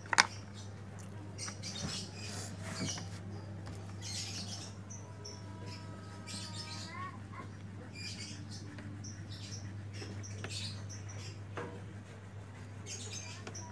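Repeated short scratchy strokes of a colouring pen or crayon rubbed back and forth on paper as a picture is coloured in, with a short rising squeak about seven seconds in. A steady low electrical hum runs underneath.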